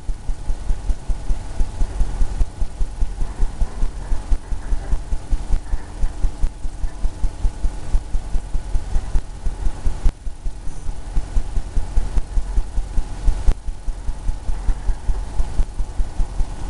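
Paintbrush working oil paint onto a canvas in quick repeated strokes, making low thumps about four a second that shake the easel, over a faint steady hum.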